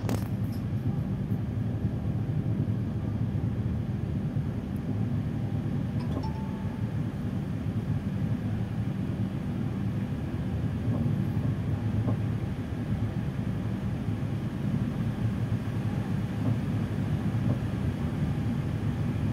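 Steady low rumble of a passenger train coach rolling slowly out of a station, heard from inside the coach.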